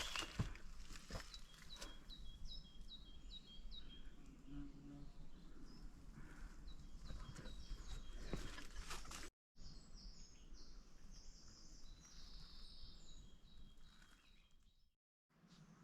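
Faint outdoor ambience with small birds chirping in short repeated notes, and a few sharp clicks in the first second or so.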